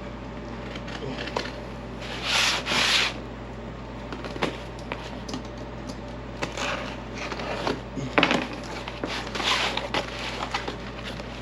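Packaging being handled during unboxing: several separate bouts of rubbing and rustling, with scattered small clicks and knocks.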